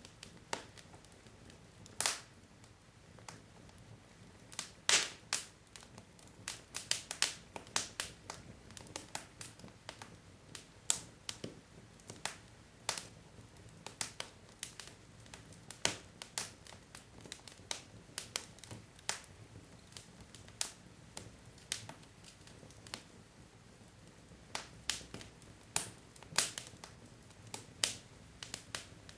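Wood fire crackling: burning logs give off frequent irregular sharp pops and snaps over a faint low background hiss.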